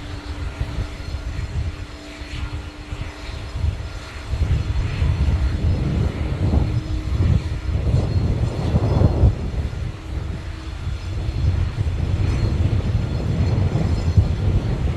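Airliner jet engines rumbling as a plane passes: a loud, unsteady low rumble that grows louder about four seconds in.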